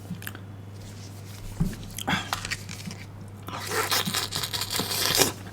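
Crisp bamboo shoots being bitten and chewed: a few sharp crunches about a second and a half in, then a denser stretch of crunching chewing in the second half.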